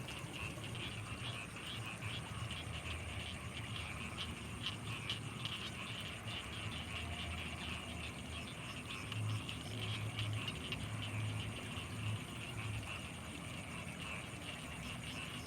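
Night chorus of frogs and insects around rice fields: a dense, rapidly pulsing chirring over a thin steady high tone, with a run of low, evenly repeated croaks in the second half.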